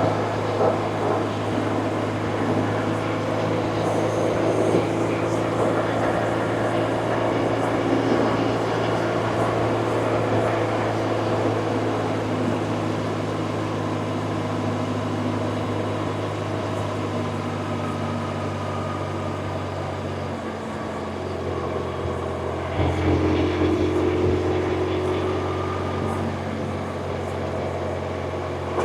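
BMW R1100RT's flat-twin boxer engine running under way at a steady speed. About twenty seconds in, the throttle eases off, and a couple of seconds later it pulls again with a louder, rising note.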